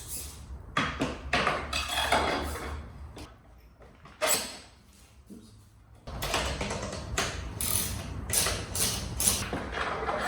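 Hand tools and metal bike parts clicking and clanking in irregular bursts while a dirt bike's wheels and forks are refitted. A low hum comes up about six seconds in.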